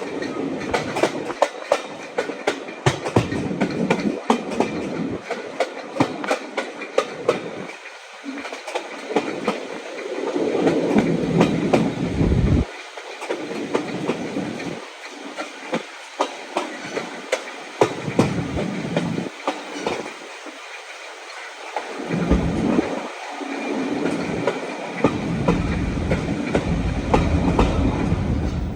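Train running along the track: a steady clickety-clack of wheels crossing rail joints, over a rumble that swells and fades.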